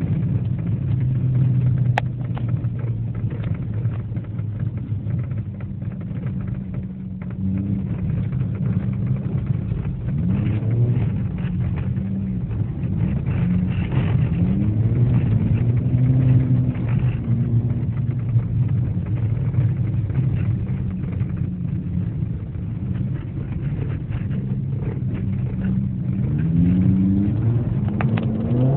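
Car engine heard from inside the cabin, running under load with the revs rising and falling as it accelerates and lifts; the pitch climbs in sweeps near the middle and again near the end. A single sharp click about two seconds in.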